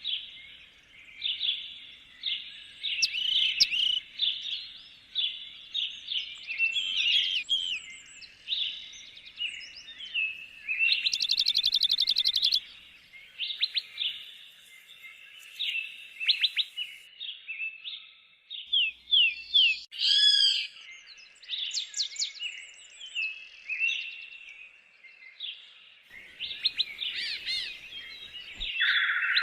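Several songbirds singing in woodland, a steady run of overlapping chirps and short whistled phrases, with a fast trill lasting over a second about eleven seconds in.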